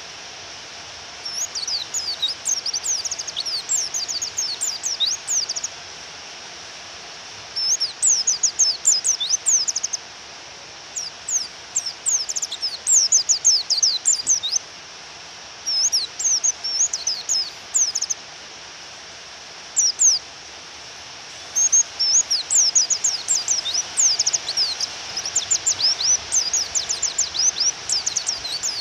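White-eye (pleci) song: fast, high chirping twitter in phrases of a few seconds with short gaps, the call used in masteran training to provoke a male pleci. Underneath runs a steady hiss of rain.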